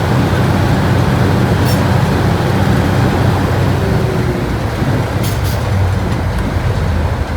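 Diesel locomotive engine running steadily as the locomotive moves, a deep even drone with a couple of light clicks about two and five seconds in.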